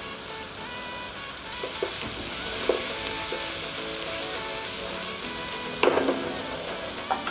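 Chopped onions and garlic sizzling in hot ghee in a nonstick wok, with a steady hiss. A wooden spatula stirs and knocks against the pan a few times, loudest about six seconds in.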